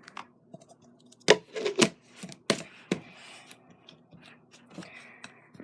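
Plastic slime containers and lids being handled: a few sharp clicks and knocks, four louder ones in the middle, with some rubbing between them.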